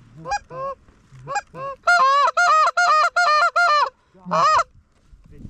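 Goose call blown hard and close, calling to a low incoming flock. A few scattered honks come first, then a fast run of about seven honks about two seconds in, and one last honk near the end.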